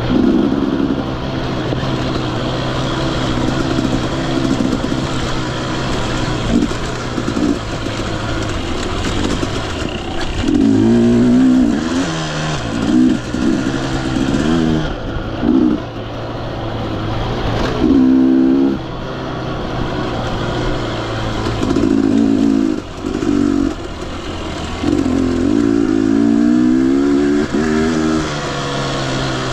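Husqvarna TE 250i two-stroke dirt bike engine being ridden, its pitch rising and falling again and again as the throttle is opened and closed.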